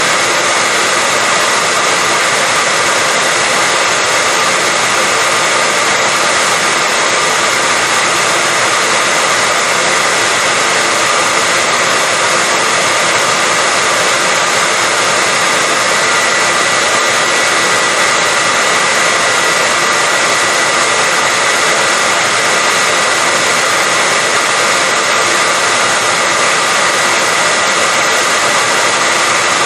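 Hair dryer running steadily, an even rushing hiss of blown air with a faint constant whine, used as white noise to lull a baby to sleep.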